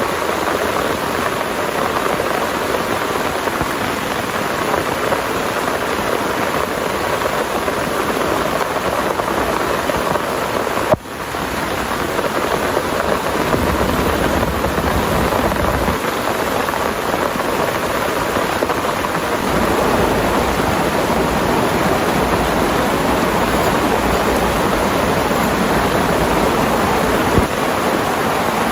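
Heavy rain pouring steadily. There is a sharp click about eleven seconds in, and a low rumble comes under the rain through the second half.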